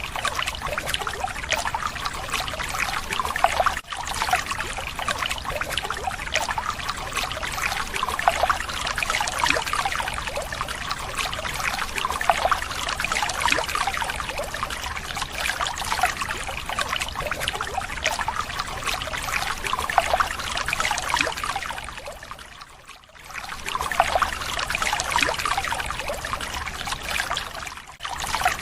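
Water pouring and trickling in a steady rush, broken briefly about four seconds in, dipping away around twenty-three seconds and breaking again near the end.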